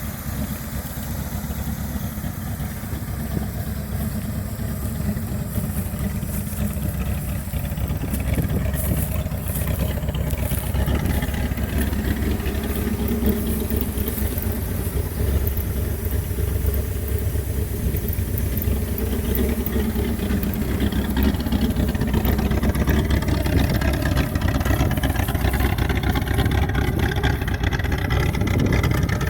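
A Dodge 360 (5.9 L) V8 runs steadily through a custom exhaust with a Pypes Violator muffler, a continuous low rumble. It grows louder about eight seconds in and again past twenty seconds.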